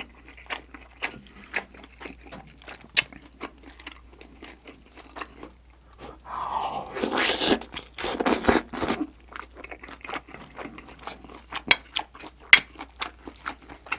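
Close-miked chewing and mouth sounds of eating, a steady run of small clicks, with a louder, rougher stretch of about three seconds in the middle.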